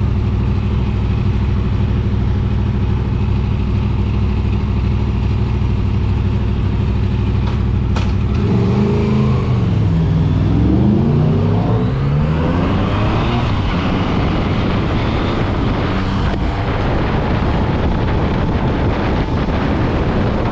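Motorcycle engine idling steadily, then a click about eight seconds in and the engine pulls away, its pitch dipping and climbing as it accelerates. Wind rushes over the microphone as it gathers speed.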